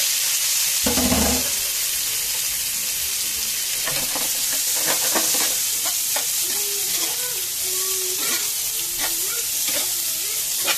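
Sliced onions and tomatoes sizzling in hot oil over high heat in a frying pan with toasted garlic, stirred with a metal slotted spoon that scrapes the pan in scattered strokes. There is a dull thump about a second in.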